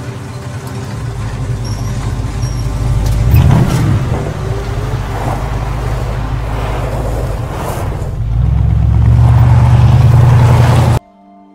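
1969 Ford Mustang fastback's V8 engine rumbling as the car moves off, with a rev about three and a half seconds in and a louder stretch near the end that cuts off suddenly.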